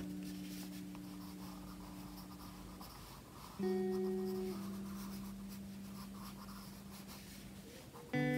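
Graphite pencil scratching softly on sketchbook paper in steady shading strokes. Under it runs soft background guitar music: a chord rings out and fades, a new chord is struck about three and a half seconds in, and another near the end.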